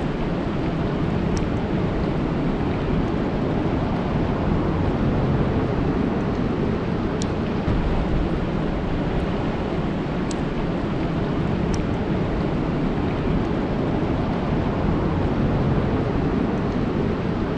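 Steady rain falling on a lake: an even rushing hiss of drops on the water, with a few faint high ticks.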